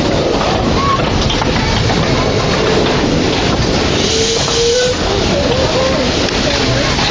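Quarry Hunslet narrow-gauge steam locomotive running on the line, with a brief brighter hiss about four seconds in.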